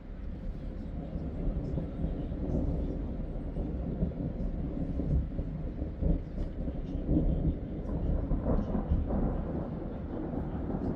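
Long, low roll of thunder that builds over the first couple of seconds, then rolls on unevenly, swelling and easing.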